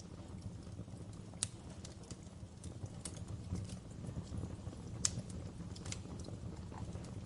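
Wood fire crackling in a fireplace: irregular sharp pops and snaps over a low steady rumble, with a louder pop about a second and a half in and the loudest about five seconds in.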